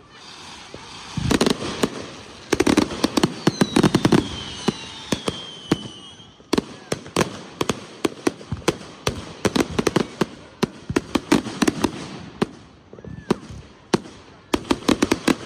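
Consumer fireworks going off in rapid volleys of sharp bangs and cracks, densest about a second in and again in the middle. A falling whistle sounds over the bangs in the first half.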